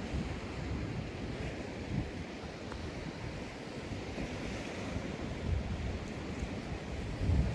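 Sea waves washing onto a sandy beach, a steady surf with a gentle swell about halfway through, and low gusts of wind buffeting the microphone.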